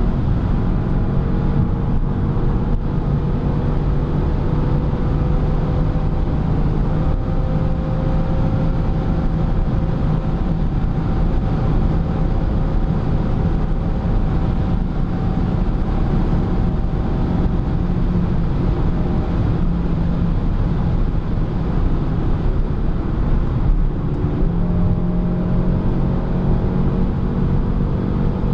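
BMW M6 (F12) convertible's twin-turbo V8 droning steadily in fifth gear at high autobahn speed, heard from inside the cabin under heavy wind and tyre noise. The engine note climbs slowly over the first several seconds as the car gathers speed. About twenty-four seconds in it dips briefly, then picks up again.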